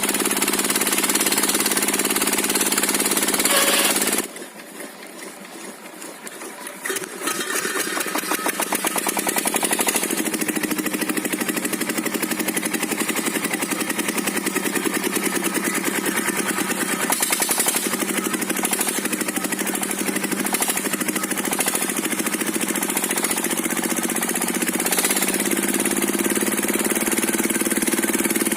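Diesel engine of a circular-saw sawmill running steadily with a rapid, even chugging. The level drops sharply about four seconds in and picks back up about three seconds later.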